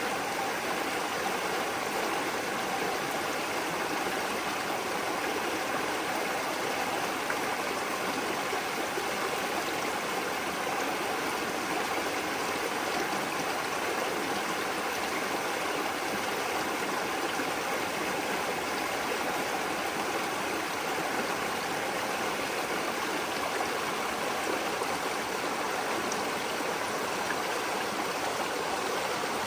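Water of a small stream flowing steadily over stones, a continuous even rushing with light gurgling.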